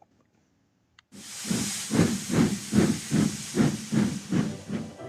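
Steam locomotive chuffing: after about a second of silence, a loud hiss of steam starts suddenly, with steady puffs at about two to three a second.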